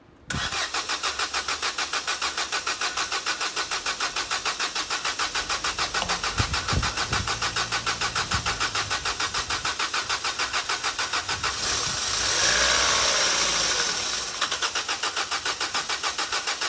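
Vauxhall Corsa E engine being cranked by its starter motor, turning over in an even rhythm of about five beats a second without catching. It gets louder for a couple of seconds about three-quarters of the way through.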